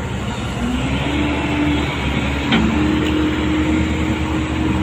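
Heavy machine's diesel engine running under load, its pitch rising about a second in and then holding steady, with one sharp knock about halfway through.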